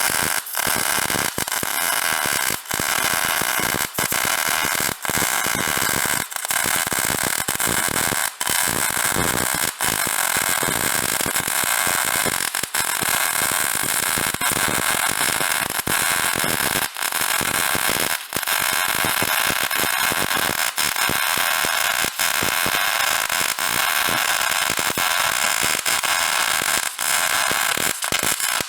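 Wire-feed (MIG) welding arc crackling steadily as new steel channel crossmembers are welded into a car trailer frame, with brief breaks every second or two as the bead is stopped and restarted.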